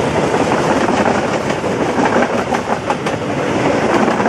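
Diesel passenger train passing close by: a steady rumble of the moving cars with the wheels clattering over rail joints.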